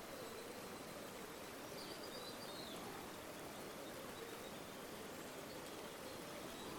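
River water flowing in a steady rush. A faint high chirp comes briefly about two seconds in.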